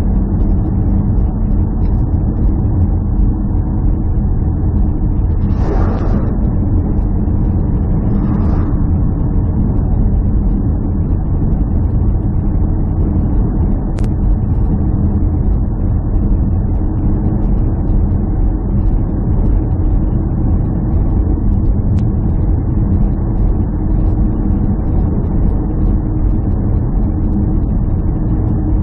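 Steady low rumble of a running motor vehicle, with two brief hissing swells about six and eight and a half seconds in.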